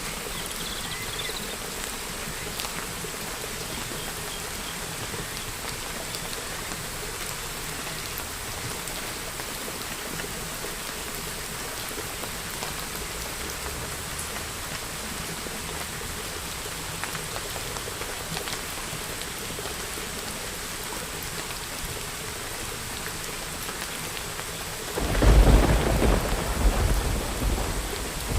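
Steady rain falling, with a few short bird chirps at the start. About 25 seconds in, a loud rumble of thunder breaks in and carries on.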